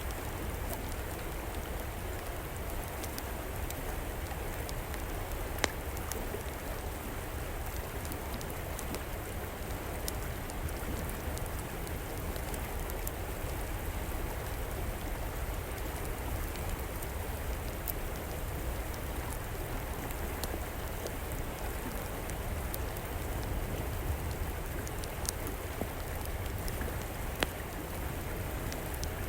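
A river flowing steadily, with the occasional sharp crackle of a wood fire burning, the loudest pop about six seconds in and a few more near the end.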